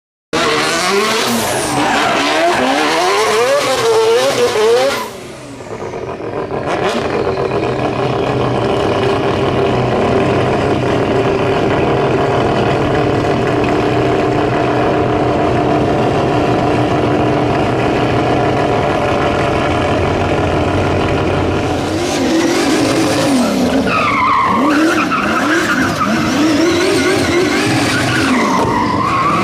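Race car engine revving hard with tyres squealing and skidding: the pitch wobbles up and down quickly for the first five seconds, dips briefly, then holds steady for a long stretch before wavering rapidly again near the end.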